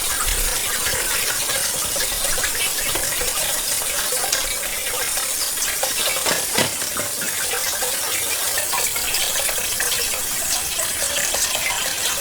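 Shallow pond water sloshing and trickling with many small irregular clicks and splashes, as hands work through the water and mud feeling for freshwater clams.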